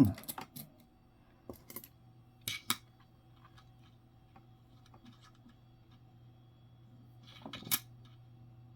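Nickels clicking and clinking against each other or a hard surface as coins are handled: a few short clicks in pairs about a second and a half and two and a half seconds in, and a louder cluster of clicks near the end.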